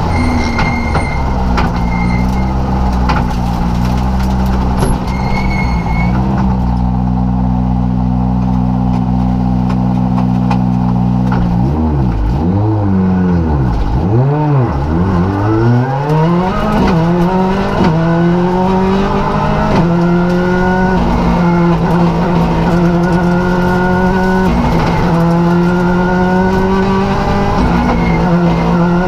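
Rally car engine heard from inside the cockpit. It holds a steady note, then its revs fall steeply about halfway through and climb again as it accelerates. It then pulls up through the gears, the pitch rising and dropping back at each of several upshifts.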